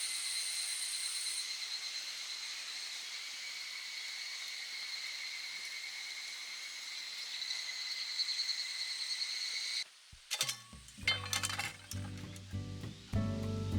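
A steady hiss with faint, constant high ringing tones, cut off suddenly about ten seconds in. Background music with a low beat follows, with light clinks of cookware.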